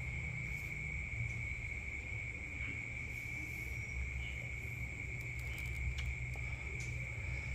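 A steady, high-pitched insect trill, cricket-type, holding one unbroken note over a low rumble, with a few faint clicks a little past the middle.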